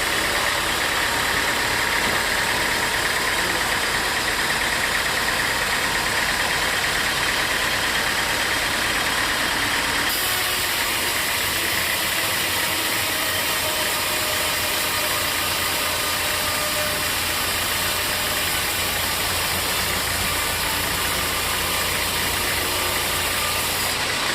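Sawmill machinery running steadily, a continuous mechanical noise with a high tone in it; the sound shifts about ten seconds in.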